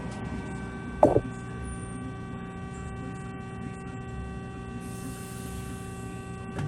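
Mega BS-360SA horizontal band saw's hydraulic unit running with a steady hum, with a short, loud mechanical clack-squeak about a second in, as the hydraulic vise works.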